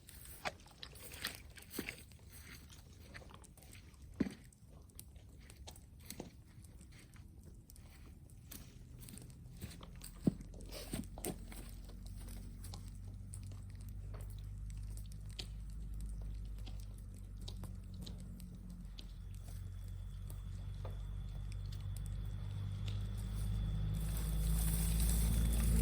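Sharp crackles and snaps, like burning or breaking brushwood. From about ten seconds in, a low droning hum joins them and grows steadily louder.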